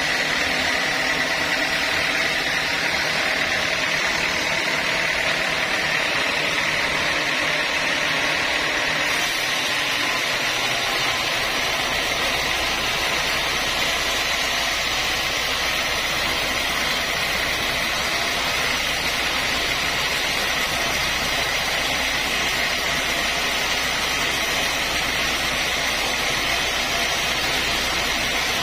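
Sawmill saw running steadily, a loud even machine noise with a high whine. About ten seconds in, a low hum sets in beneath it.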